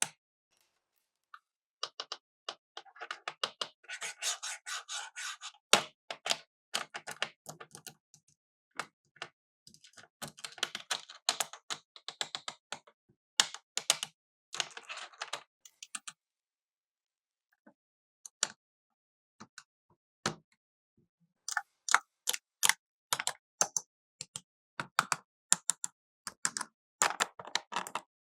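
Plastic toy cash register playset being handled: bursts of rapid plastic clicks and taps, at times with rustling, broken by short pauses.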